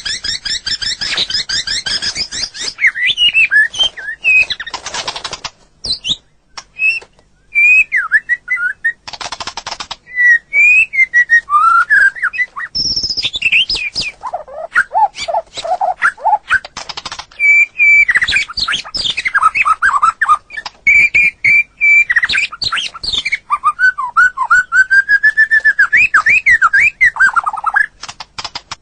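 White-rumped shama singing a long, varied song: rapid buzzy trills, clear whistled phrases that glide up and down, and a few low fluting notes, with a short pause about a quarter of the way in.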